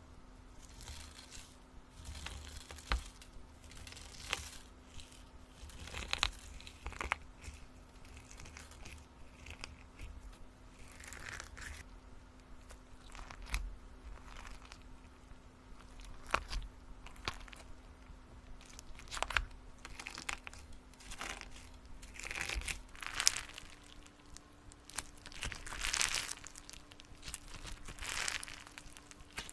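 Irregular crinkling, rustling and tearing sounds of something being handled, growing denser near the end, over a faint steady hum.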